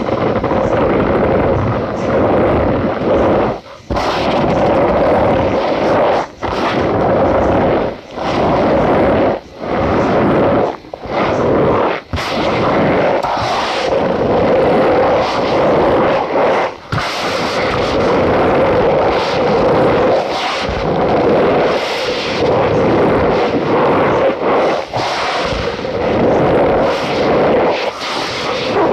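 Cornstarch powder being squeezed and crushed by hand, giving a dense squeaky crunching in long strokes broken by short pauses every second or two.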